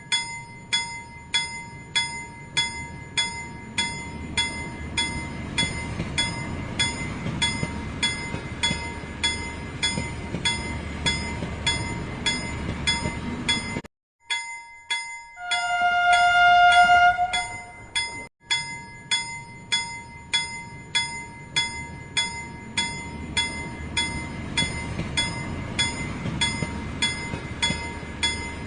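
Toy steam train running with its sound effects: a bell-like ding repeating about one and a half times a second over a low rumble. About halfway through the sound cuts out briefly, then a short whistle toot sounds for about two seconds.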